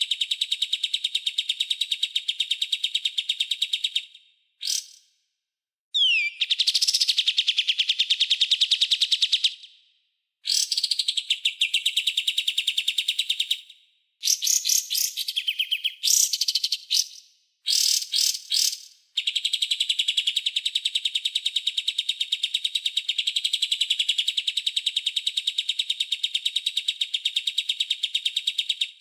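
Songbird giving very rapid, harsh trills of the 'tembakan' and 'besetan' kind prized in masteran song. They come in runs of one to several seconds, with short breaks, and the longest run fills the last third.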